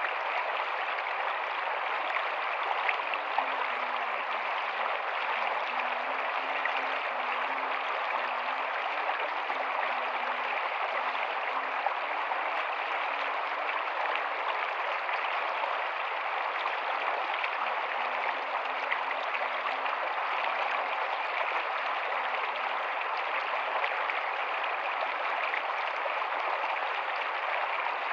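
A rocky stream running steadily: a constant, even rush of water, with a few faint low bubbling notes now and then.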